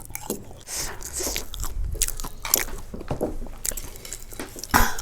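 Close-up crunching and chewing of crisp snack food such as chips, a string of irregular crisp bites with a louder crunch near the end.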